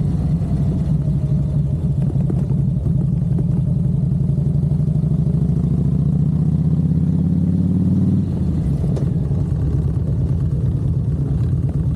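Harley-Davidson Ultra Classic's V-twin engine running on the move, its pitch climbing steadily for a few seconds as it accelerates, then dropping sharply about eight seconds in.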